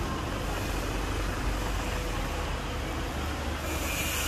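Truck running on the road: a steady low engine rumble with tyre and road noise, and a brighter hiss that comes in near the end.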